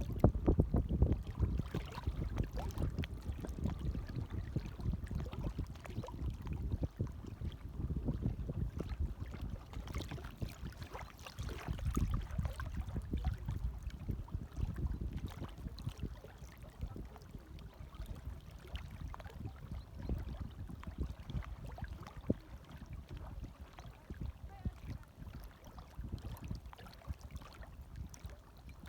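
Small waves lapping gently: a continuous low wash of water with many small splashes, swelling about a second in and again around twelve seconds in.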